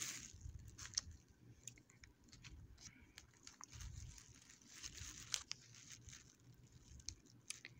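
Bubble wrap and a small clear plastic bag being handled: faint crinkling with scattered sharp crackles and clicks.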